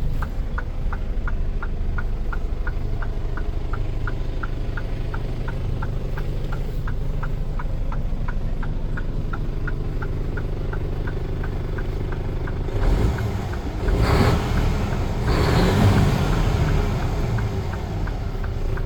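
Mercedes-Benz Actros 1843 truck's diesel engine idling steadily, with a light regular ticking about four times a second over it. About two-thirds of the way through, the engine sound swells louder three times in quick succession.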